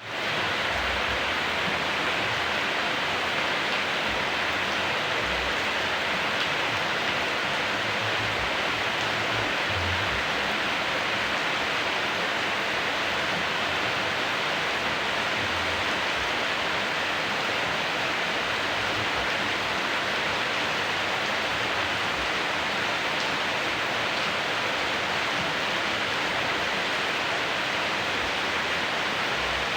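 Steady, dense rainfall: an even hiss of rain that holds at one level throughout.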